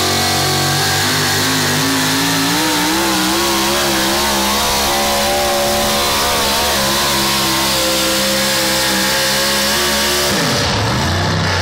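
Competition pulling vehicle's engine running at full throttle under load, its pitch wavering and climbing as it pulls. About ten and a half seconds in, the pitch drops sharply.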